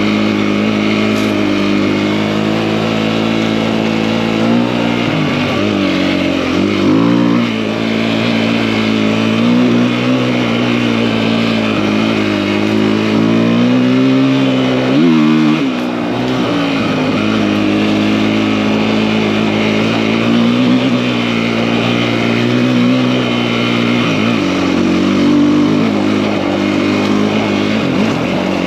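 Big-bore KTM EXC-F enduro bike's single-cylinder four-stroke engine under way, riding along. It holds a steady pitch at first, then revs rise and fall with throttle changes several times, with a sharp drop and pick-up about halfway through.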